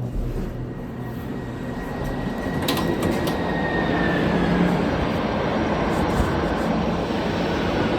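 Hotel elevator car travelling, a steady rumble that builds, with a faint high whine and a few sharp clicks about three seconds in.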